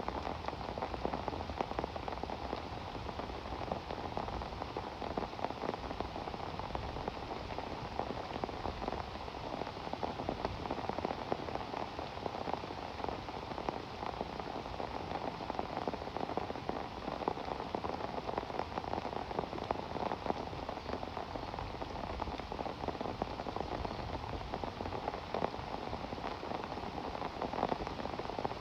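Steady rain falling, countless individual drops striking over an even hiss that holds the same level throughout.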